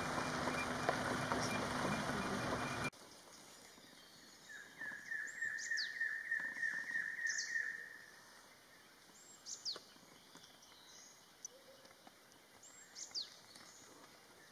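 Loud, even rushing noise with a low hum cuts off abruptly about three seconds in. Then quiet dry-forest ambience with birds calling: a quick run of about a dozen repeated chirps, roughly four a second, and a few sharp downward whistles.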